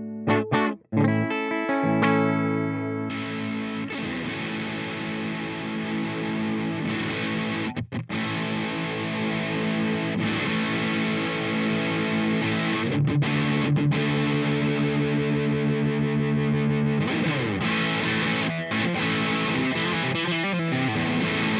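Electric guitar played through the Peace Hill FX TR tube preamp with a distorted tone: picked chords and held notes. There is a brief stop about eight seconds in and sliding notes near the end.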